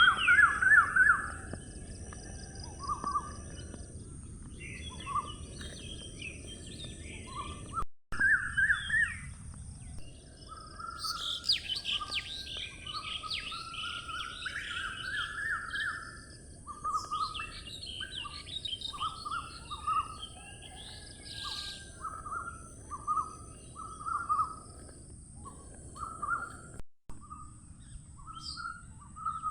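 Wild birds calling and chirping over a steady outdoor background hiss. Short repeated notes run throughout, with a dense flurry of higher, busier calls about eleven seconds in.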